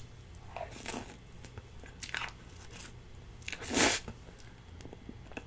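A person eating cheesecake close to the microphone: soft chewing and mouth sounds with a few light clicks. A louder, brief noisy burst comes a little before the end.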